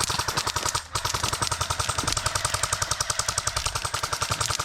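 Paintball marker firing in a rapid, fully automatic-sounding stream of shots, with a brief break about a second in before the firing resumes.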